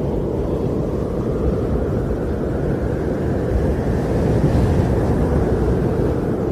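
Wind blowing steadily with a low rumble, swelling in a gust about four to five seconds in.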